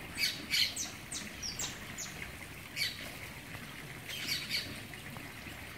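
Birds calling in short, sharp high-pitched notes: two strong calls at the start, a quick run of descending chirps between one and two seconds in, and further calls near three and four and a half seconds.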